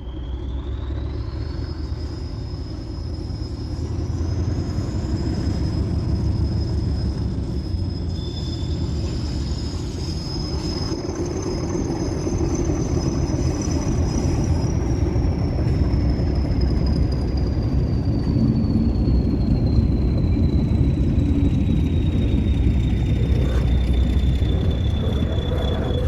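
Class 40 diesel-electric locomotive's engine, a deep steady rumble, with its high turbocharger whistle rising over the first few seconds and then falling slowly. The sound gradually grows louder.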